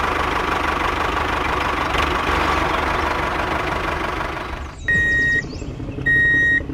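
Tractor engine running steadily, then cutting off about five seconds in. Two short, clear high-pitched tones follow, each about half a second long.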